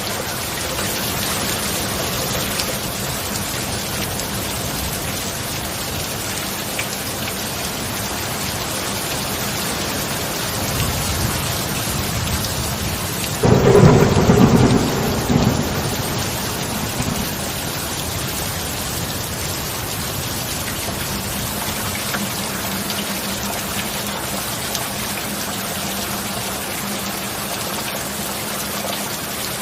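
Steady heavy rain with a thunderclap: a low rumble builds about ten seconds in, then a sudden loud crash of thunder about halfway through that rumbles away over a few seconds.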